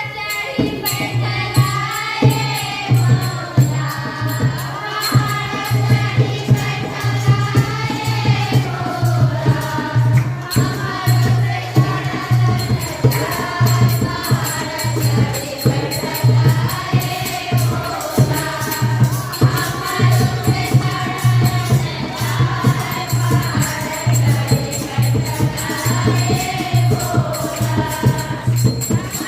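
A group of voices sings a Shiva devotional song, with fast, steady percussion beating under it, which the title names as a damru.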